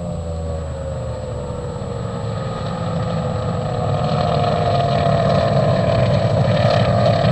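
Mercury engine of a drag boat running on the water. Its pitch eases down over the first couple of seconds and then holds, and it grows steadily louder through the second half.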